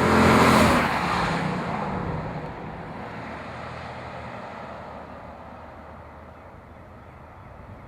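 VW Touareg V8 with a Fabspeed aftermarket exhaust driving past under power: its exhaust note peaks in the first second, then drops in pitch and fades as the SUV moves away.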